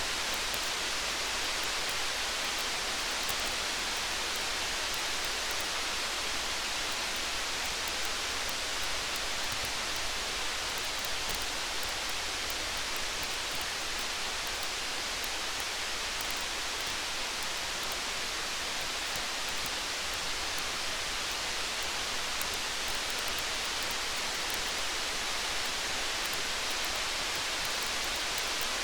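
Steady rain, an even hiss with no change in level, sprinkled with faint fine ticks.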